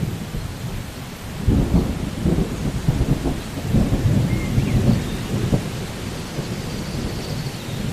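Thunder rolling over steady rain: a crackling low rumble builds about a second and a half in and dies back after about four seconds, leaving the hiss of rain.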